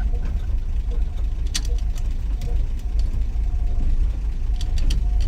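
1963 Willys Wagon's Tornado 230 overhead-cam inline-six running with a steady low rumble. A few sharp clicks sound about a second and a half in and again near the end.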